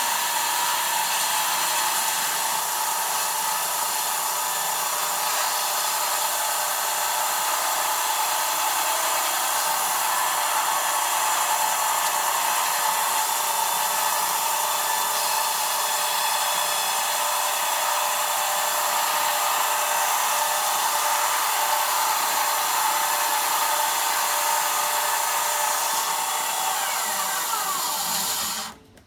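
Sawmill running steadily through a log, a loud even noise with a steady whine, which cuts off abruptly near the end.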